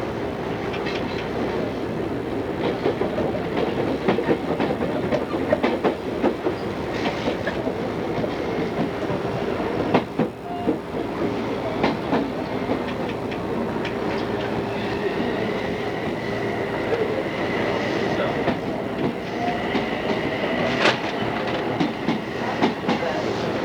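Odakyu 2600 series electric train running at speed, a steady rumble of wheels and motors with irregular clacks over rail joints. In the second half a high steady whine rises over the rumble for several seconds. The whole sound comes off an old cassette tape recording.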